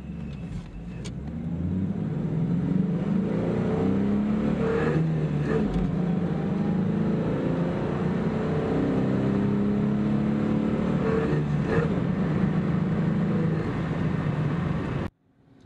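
1996 Ford Mustang's 3.8-litre V6, on its stock single 2-inch exhaust, heard from inside the cabin under full-throttle acceleration in a 0-60 mph run. The engine note climbs in pitch, drops at an upshift of the manual gearbox about five seconds in and again about twelve seconds in, then climbs again.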